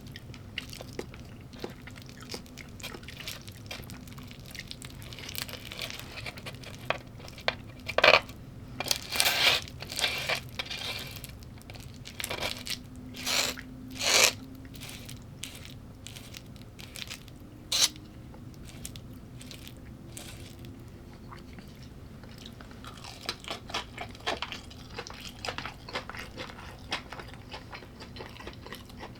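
A person chewing and biting crunchy food, in irregular crunches with a few louder bites; the loudest cluster falls between about 8 and 15 seconds in.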